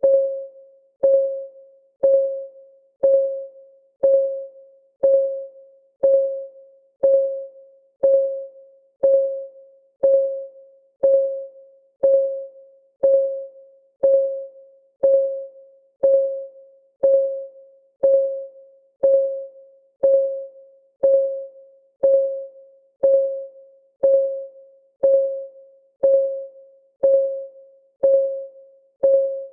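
Clock ticking steadily once a second, each tick a short click with a brief pitched ring that dies away quickly.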